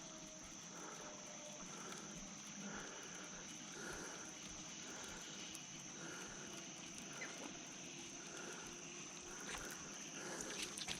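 Outdoor summer wildlife ambience: a steady high-pitched insect drone with a soft, lower call repeated over and over, from a frog or bird.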